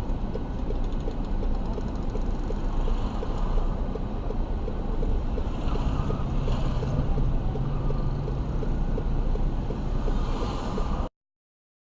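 Steady low rumble of a moving car's engine and road noise, with no crash or impact heard; it cuts off abruptly to silence about eleven seconds in.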